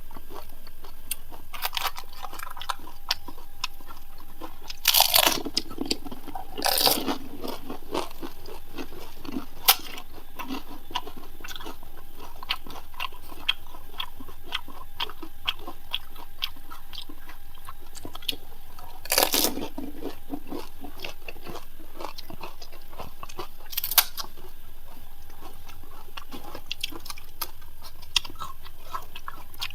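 Crisp panipuri (fuchka) shells being bitten and chewed: a run of small crackling crunches, with a few louder, longer crunches about five, seven, nineteen and twenty-four seconds in.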